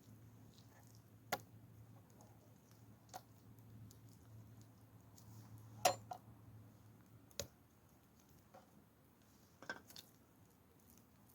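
A few sparse, light clicks and knocks, the loudest about six seconds in and a small cluster near the end, over a faint low hum that fades out partway through.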